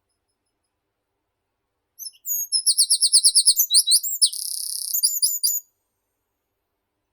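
One high-pitched songbird song of about three and a half seconds, starting about two seconds in. It begins with a quick run of repeated falling notes, changes into a short buzzy trill, and ends with a few slurred notes.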